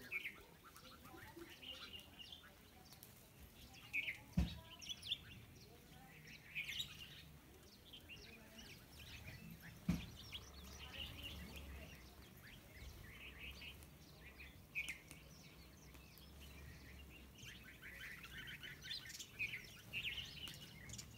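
Several small birds chirping and twittering in short, scattered calls, with two sudden thumps about four and ten seconds in.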